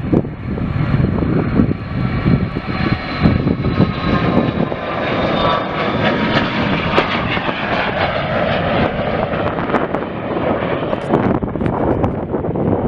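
Airplane engines passing close by: a steady rushing noise with a high whine in several tones that slowly falls in pitch.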